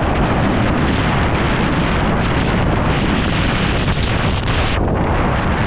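Strong wind buffeting the microphone: a loud, steady rumble with a hiss above it.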